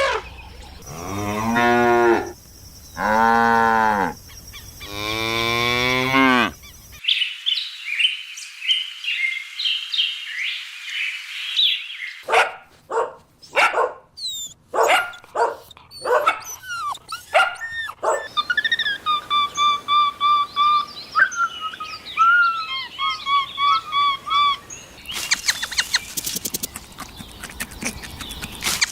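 Cattle mooing: three long moos one after another, each lasting about two seconds. After them come a series of other high chirping and calling animal sounds.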